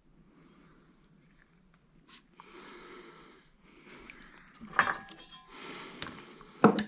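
Soft rummaging and handling noise with two sharp knocks, one about five seconds in and a louder one near the end: a dropped small magnet falling and striking a hard surface.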